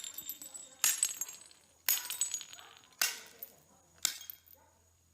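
Four sharp strikes about a second apart, each with a bright ringing tail that crackles as it fades.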